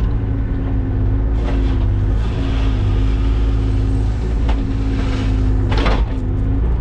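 Engine of a piece of job-site equipment running steadily at a constant speed, with a couple of brief knocks about four and six seconds in.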